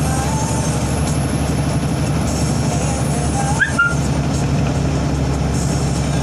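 Heavy truck's diesel engine running steadily while driving, with a brief squeak about three and a half seconds in.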